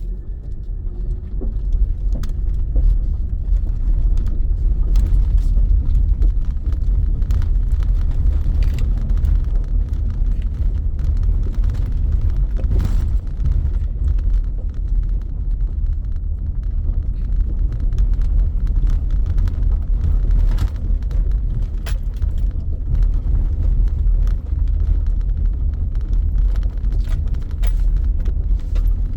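Vehicle driving, heard from inside the cabin: a steady low road rumble with frequent light rattles and clicks, as of keys or loose items jangling.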